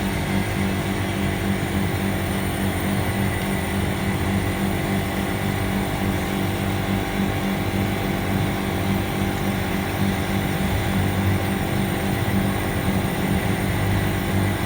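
Air conditioner running with its compressor and fan on, a steady low hum, while it is being charged with R410A refrigerant because it is low on gas.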